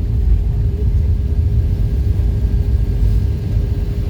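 Airbus A319 airliner noise: a steady low rumble with a constant hum.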